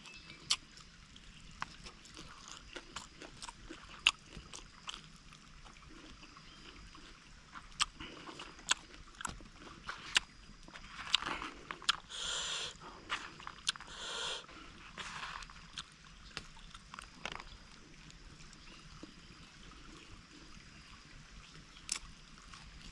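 A person eating a camp meal: irregular sharp clicks and chewing, with a louder crunching stretch about halfway through.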